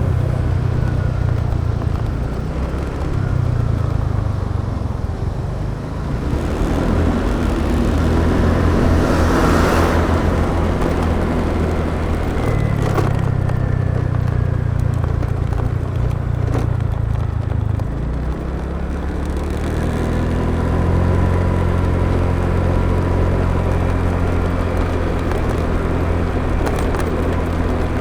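Motorbike engine running while under way, with road and wind noise. Its low note drops and picks up again several times as the throttle changes, and a rushing swell of noise passes about ten seconds in.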